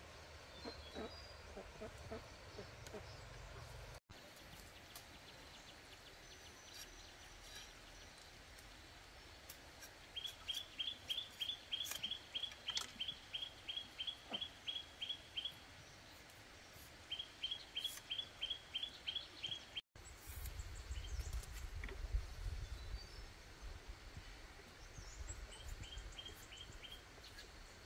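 A bird repeats a short, high chirp about four times a second, in two runs of several seconds and a shorter run near the end. A spell of low rumbling noise comes in the later part.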